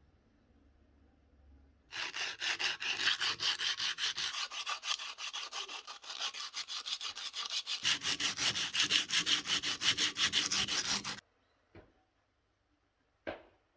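Rapid back-and-forth scraping strokes of a hand tool, several a second, starting about two seconds in and running for about nine seconds before stopping suddenly, followed by a couple of light clicks.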